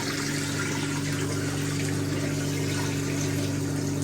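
1958 Hotpoint Empress washing machine's drain pump running steadily, its motor humming as water is pumped out through the drain hose.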